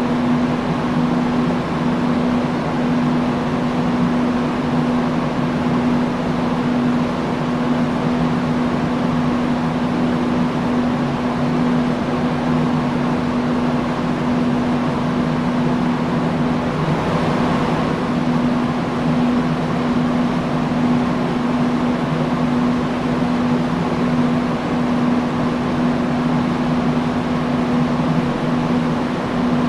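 Industrial fan running steadily: a constant rush of air over a low motor hum. About seventeen seconds in, the hum briefly breaks while the air hiss brightens, then it carries on unchanged.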